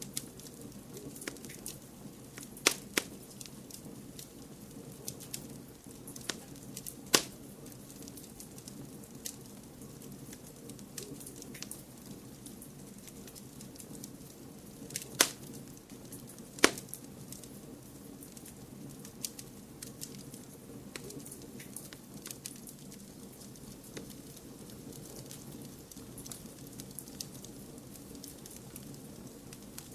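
Wood fire crackling in a fireplace: a steady low rumble of flames with scattered sharp pops and snaps, a few of them much louder than the rest.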